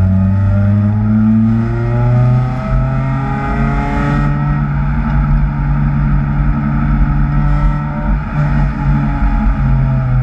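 Supercharged Acura TSX engine being driven hard on track, its note climbing through the revs for about the first four seconds, then holding and easing with small steps in pitch as the driver works the throttle and gears.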